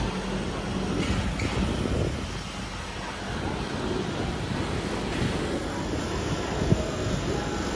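Shopping mall ambience: a steady wash of crowd murmur and low rumble, with one sharp click near the end.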